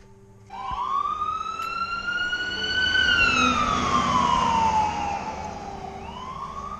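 A siren wailing: one slow rise and fall in pitch, starting to rise again near the end.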